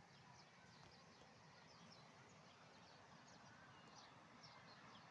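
Faint birdsong: many small birds chirping in quick, short notes over a steady outdoor hiss.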